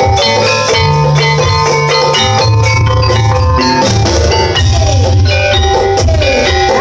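Instrumental jaranan music: struck metallophone notes over drums and a heavy bass line.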